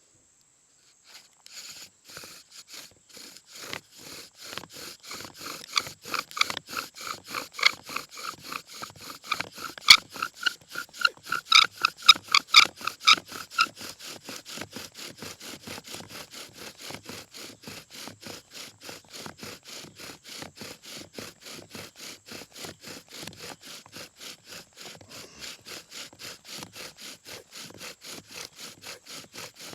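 Bow drill being worked, a hemlock spindle spinning back and forth in a hemlock hearth board in fast, even strokes. It starts about a second and a half in. Through the middle the spindle squeaks loudly with each stroke, then settles into a steadier rasping grind.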